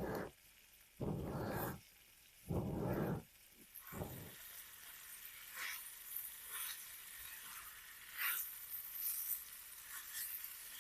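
Chicken fajita filling sizzling in a cast iron pan over a campfire: a steady high hiss with scattered crackling pops from about four seconds in. Before that come several short, low rushing noises, each under a second.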